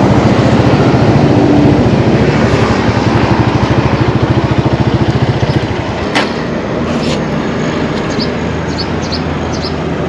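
Small carburetted motorbike engine running as the bike is ridden, with a fast, even pulse. About five and a half seconds in the engine drops back and gets quieter as the bike slows, a sharp click follows, and it keeps running at a lower, steadier note.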